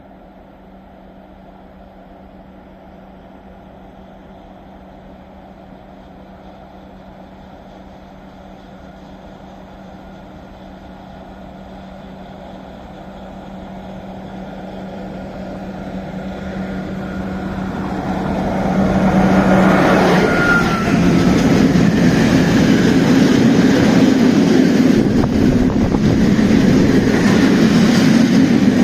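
A train approaching: a steady low hum and running noise grow louder for about 19 seconds. It then passes close by as a loud, continuous rush of wheel and rail noise that lasts to the end.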